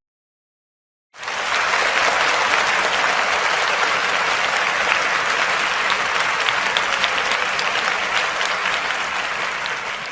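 Crowd applause, many hands clapping together, starting abruptly about a second in and easing slightly near the end.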